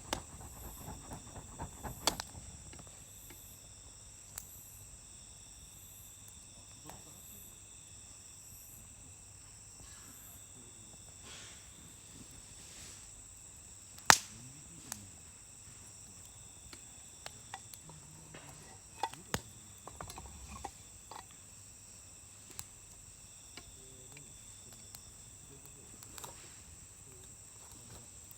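Campfire wood crackling, with scattered sharp pops: a quick run of crackles in the first couple of seconds and the loudest single pop about halfway. Under it, crickets or other insects trill steadily and high-pitched.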